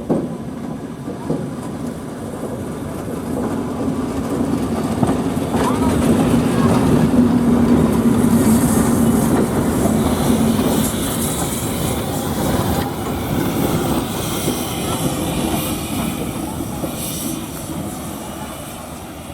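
Train rolling along the track, growing louder toward the middle, then slowly fading.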